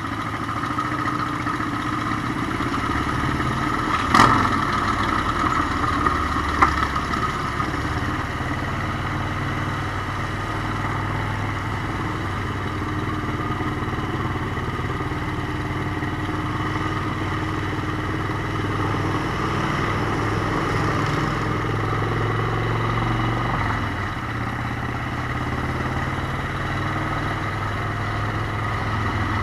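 Motorcycle engine running steadily under way, with two short sharp knocks about four and seven seconds in.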